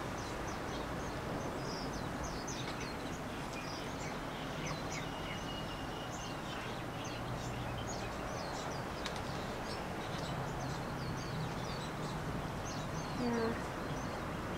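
Small birds chirping, many short high calls, over a steady low hum of ambient noise.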